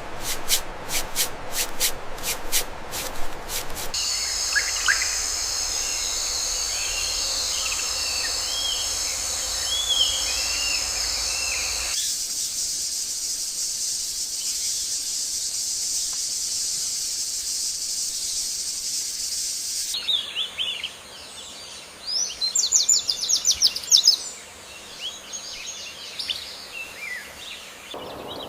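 Tropical forest ambience: a steady high-pitched insect drone with chirping bird calls over it, opening with a few seconds of rapid, even pulsing and ending with bursts of quick trilling calls. The mix changes abruptly every eight seconds or so.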